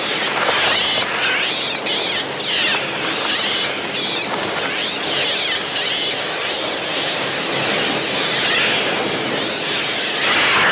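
A large flock of attacking gulls, many overlapping shrill cries rising and falling without a break.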